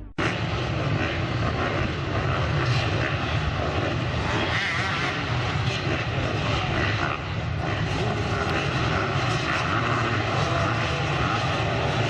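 Motocross bike engines running steadily without a break.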